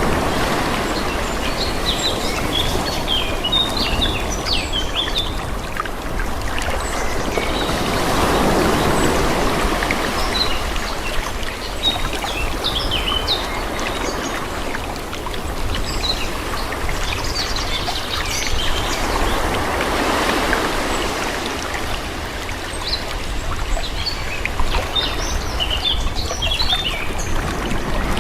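Calm sea waves washing in slow swells, one about every ten seconds, with small birds chirping over them.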